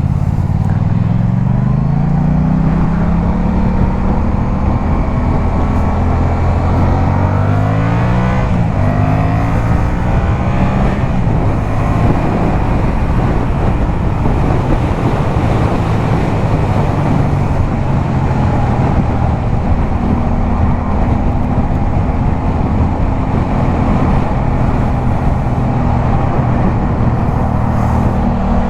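Yamaha MT-07's 689 cc parallel-twin engine through a LeoVince exhaust, pulling hard with the pitch climbing twice as it accelerates through the gears, then holding a steady highway cruise. Wind rush runs under the engine note.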